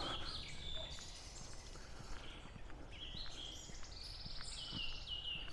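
Small songbirds singing and calling, short high chirps and whistles with a fast trill that drops in pitch near the end, over a steady low background rumble.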